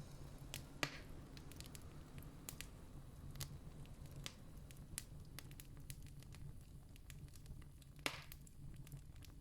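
Campfire crackling: irregular sharp snaps and pops over a low steady rumble, with two louder pops about a second in and near the end.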